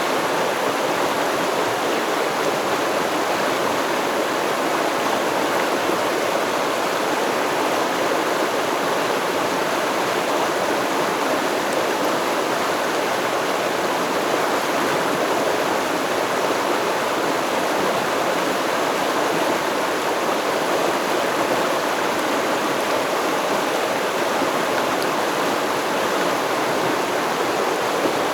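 Steady rush and babble of a stream flowing over rocks, continuous and unchanging.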